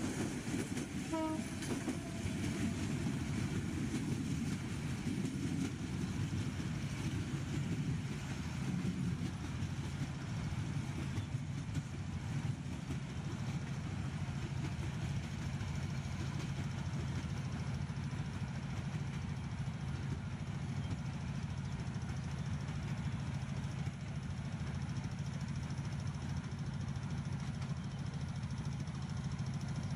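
Bangladesh Railway intercity passenger train running on the track, a steady rumble of the coaches' wheels on the rails with a low hum underneath.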